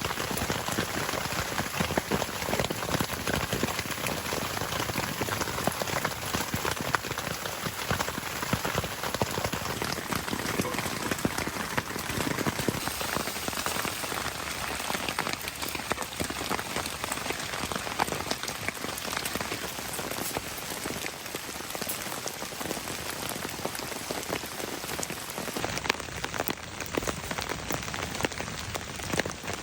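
Steady rain falling, many individual drops pattering on a surface.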